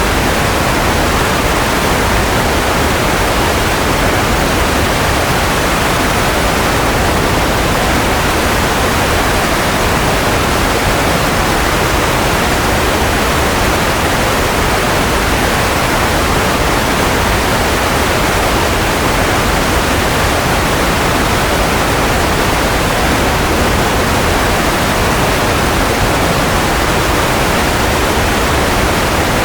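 Steady white noise played for baby sleep: an even, unchanging hiss with no tones or breaks, fuller in the middle range and softer in the highs.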